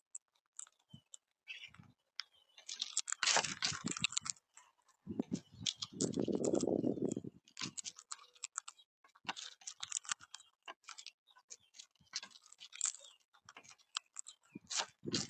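Quaker parrots (monk parakeets) crunching and chewing food: a fast, irregular run of small crackling clicks. A low rumble comes in about five seconds in and lasts a couple of seconds.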